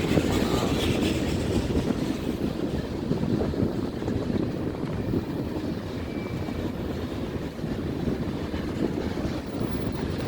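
A train rumbling steadily across a railway bridge.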